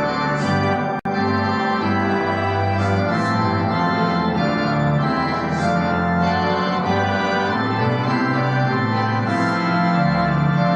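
Church organ playing music of held chords with a moving bass line, the sound cutting out for an instant about a second in.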